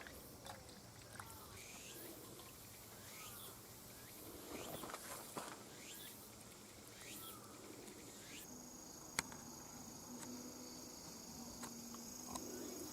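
Faint outdoor background of insects chirping, with a steady high insect trill setting in after about eight seconds and a single sharp click about nine seconds in.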